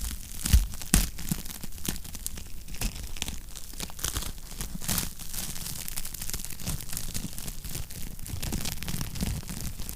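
Wood fire crackling, a steady stream of small snaps with a low rumble beneath and a few louder pops, the loudest about half a second and a second in.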